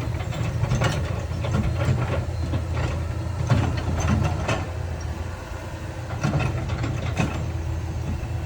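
Heavy diesel earthmoving machinery running steadily, with irregular metallic clanks and knocks, the loudest about three and a half seconds in.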